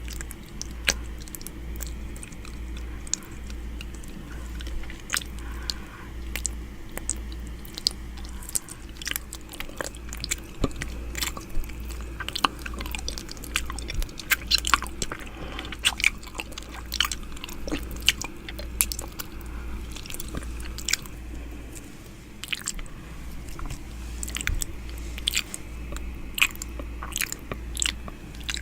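ASMR 'ear eating' mouth sounds made right at the microphone: a dense, irregular run of sharp mouth clicks and smacks, over a low hum.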